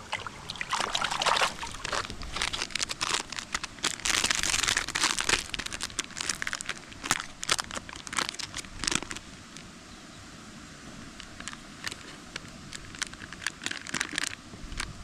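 Crinkling and rustling of something being handled, with many sharp clicks and crackles, busy for the first nine seconds or so and then sparser.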